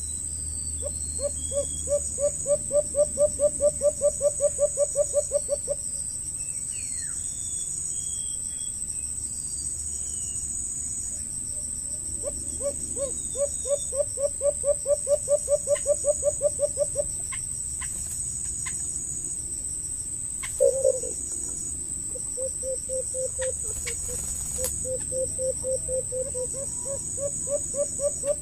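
A bird calling in rapid runs of evenly spaced low notes, about six a second: two runs of about four to five seconds, then a quieter, choppier run near the end. Under it, insects keep up a steady high drone with a pulsing cricket chirp, and there are a few faint high bird chirps in the first seconds.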